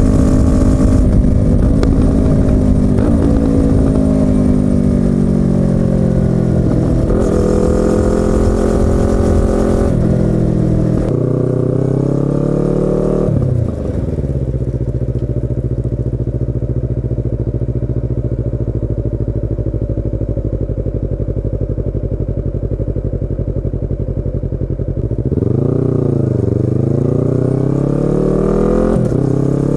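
Yamaha YZF-R25's 249 cc parallel-twin engine and exhaust coming down through the gears as the bike slows, the revs falling with short jumps at each downshift. It then idles steadily for about ten seconds and pulls away, the revs dipping and then climbing as it accelerates.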